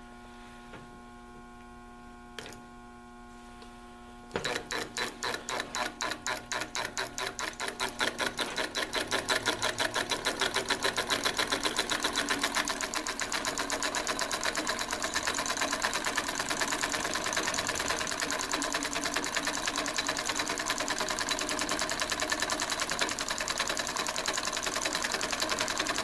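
Homemade solenoid engine, a truck starter solenoid pulsed by a micro switch and driving a weed eater crankshaft and flywheel, starting up. A steady hum comes first; about four seconds in, separate clacking strokes begin and speed up over several seconds into a fast, even clatter that runs on steadily.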